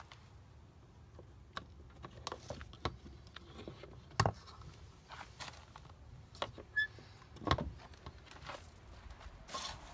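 Irregular clicks and knocks, the loudest about four seconds and seven and a half seconds in, with a brief high squeak shortly before the second.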